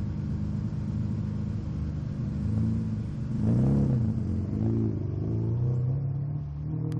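Ferrari 456 GT's 5.5-litre V12 idling steadily, then revved in three short throttle blips, the first the highest and loudest, before settling back to idle.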